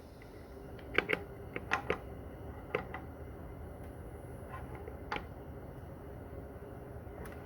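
Scattered light clicks and clinks of hand tools and transmission parts being handled, several in the first two seconds and a few more later, over a low steady hum.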